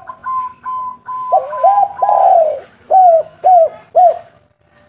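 Spotted dove cooing: a run of soft, higher notes, then a longer coo and three short, loud arched coos about half a second apart near the end.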